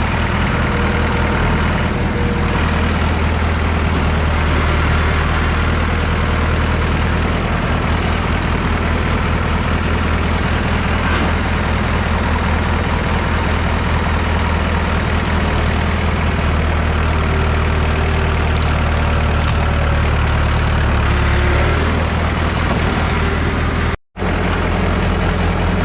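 Massey Ferguson 3165 backhoe tractor's engine running steadily under load, with its low drone shifting slightly near the end. The sound cuts out for a split second shortly before the end.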